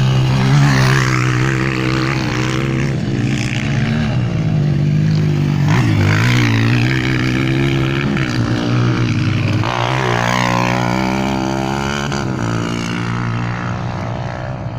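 Several motocross motorcycle engines running on the track, revving up and falling back as the bikes ride past. About ten seconds in, a second, higher-pitched engine comes in over the first.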